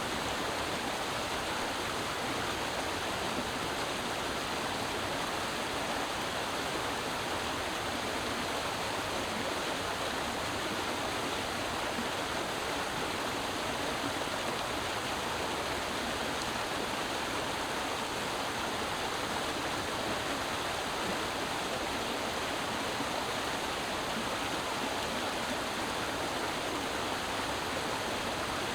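Creek water running over rocks, a steady rushing and splashing without a break.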